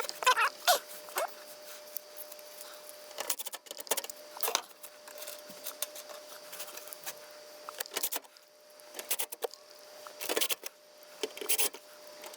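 Scattered metallic clicks and rattles from screws being fitted into the sheet-metal cover of an HVAC air handler, in irregular clusters.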